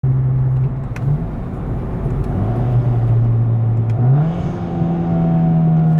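Straight-piped Volkswagen Golf GTI Mk7.5's turbocharged 2.0-litre four-cylinder running on the move, its steady exhaust note dropping in pitch a couple of seconds in and rising again about four seconds in. A few sharp clicks sound over it.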